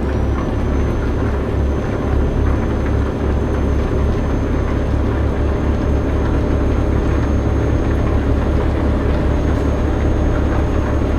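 Truck engine running at a steady pace, a deep, even low drone with a thin high whine above it. It starts and stops abruptly.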